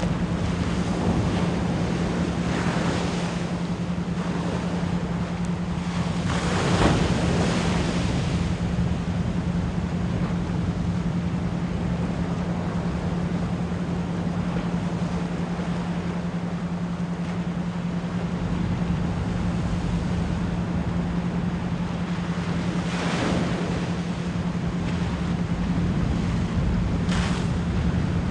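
Ocean waves washing in over a steady low 174 Hz pure tone pulsed as an isochronic beat. A few wave surges rise out of the wash, the strongest about seven seconds in and others near the start and the end.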